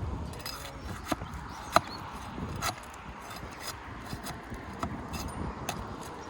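Irregular light knocks and clicks from hand work on roof shingles, with one sharp crack about two seconds in.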